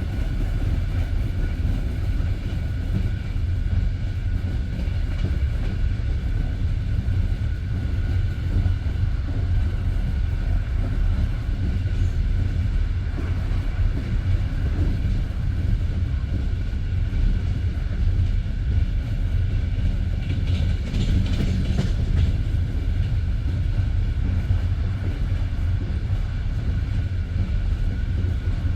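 Passenger railway carriage running at speed: a steady low rumble of the wheels on the rails with clatter of wheels over the track. About three-quarters of the way through, a brief higher-pitched rattle rises over it.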